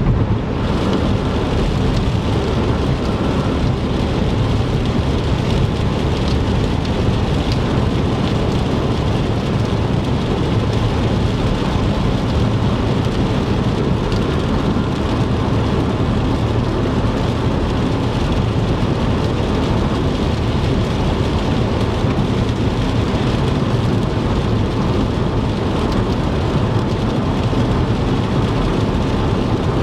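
Rain and tyre noise of a car driving on a wet interstate: a steady wash with a deep rumble underneath.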